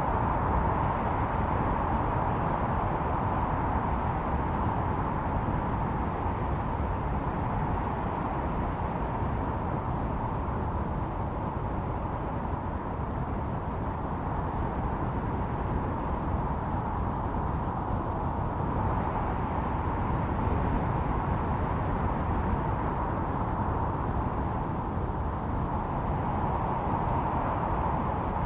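Blizzard wind howling: a steady rush with a whistling tone through it, swelling in gusts about two-thirds of the way through and again near the end.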